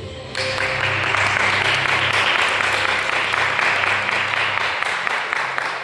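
Audience applauding, breaking out suddenly just under half a second in and tapering off near the end.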